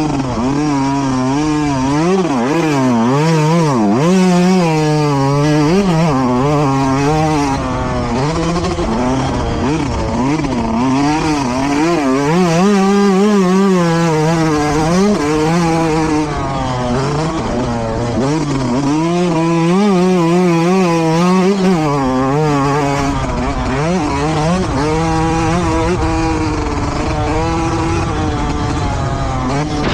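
Motocross bike engines revving hard and backing off over and over, the pitch climbing and dropping repeatedly with throttle and gear changes. Loud and continuous.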